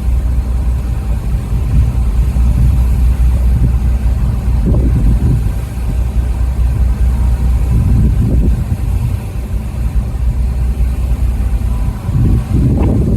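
Strong wind buffeting the microphone aboard a ferry at sea, a heavy steady low rumble with gusts swelling and easing. It cuts off suddenly at the very end.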